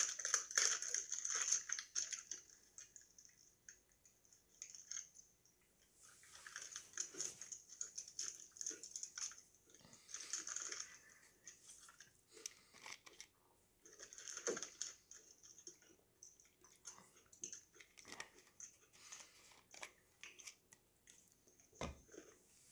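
Plastic Oreo package crinkling as it is torn open, then an Oreo cookie being bitten and chewed with small crunches, with a few more short bursts of wrapper crinkling.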